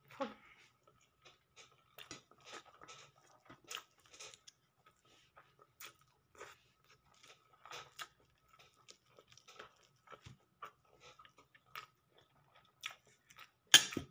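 Close-up chewing and crunching of food: irregular short mouth clicks throughout, with one louder, sharper click near the end.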